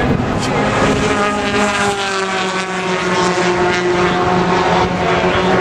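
Racing muscle car engines at full throttle on a race track's main straight, a loud continuous engine note that slides a little lower and then holds steady.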